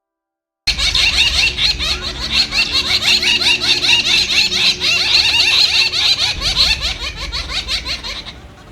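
A flock of birds chattering: a dense, fast run of many short, squeaky, rising calls. It starts suddenly about a second in and fades near the end.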